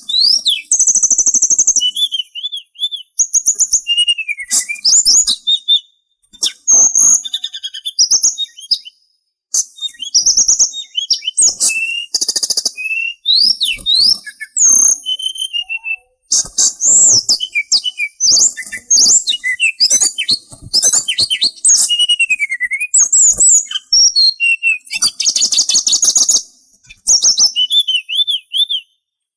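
A songbird known in Indonesia as the sulingan singing a fast, varied chatter of high whistled notes, rising and falling slurs and rapid buzzy trills, in phrases separated by brief pauses.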